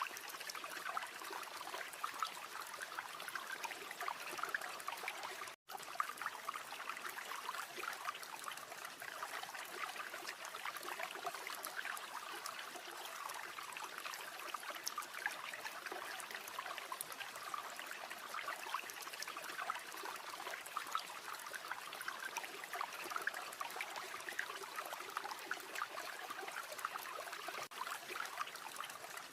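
River water flowing steadily, with a campfire crackling over it. The sound cuts out for an instant about five and a half seconds in.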